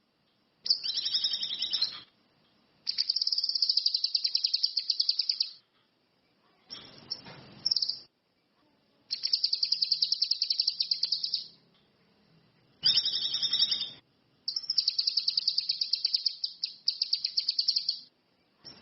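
Cucak kinoi (ranti mas) songbird singing about six bursts of fast, high trilled notes, each one to three seconds long, with short pauses between.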